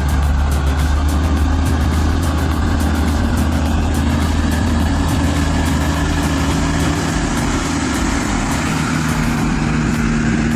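Heavy vehicle engine, most likely a logging truck's diesel, running steadily at a constant low note without revving.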